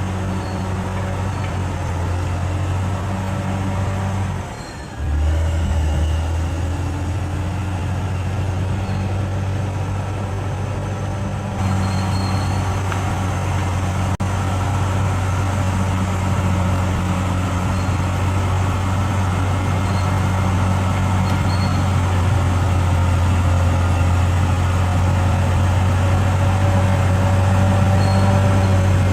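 Bulldozer's diesel engine running with a steady low drone. The sound dips briefly about four and a half seconds in and shifts abruptly about eleven and a half seconds in.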